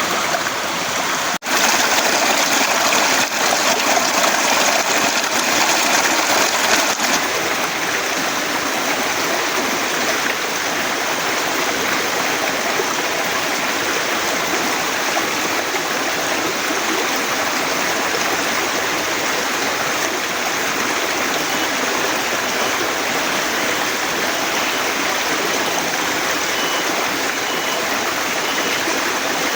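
Heavy rain falling steadily, slightly louder for the first several seconds, with a momentary dropout about a second and a half in.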